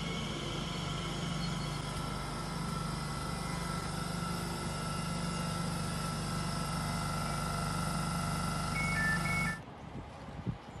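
Electric train running, a steady hum with a few thin whining tones over it, and two short high beeps just before the sound cuts off abruptly near the end.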